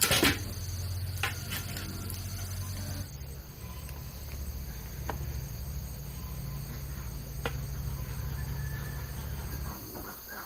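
Insects, crickets or similar, chirring steadily at a high pitch over a low steady rumble, with a sharp click at the start and a few faint ticks.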